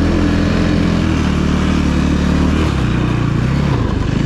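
Snowbike's motorcycle engine running steadily under throttle, its note shifting a couple of times and dropping near the end as the revs come down.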